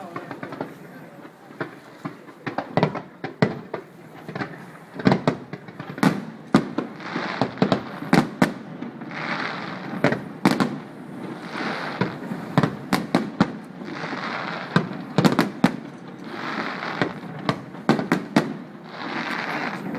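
Fireworks display: a rapid, irregular string of sharp bangs, with repeated bursts of dense crackling about a second long from about seven seconds in.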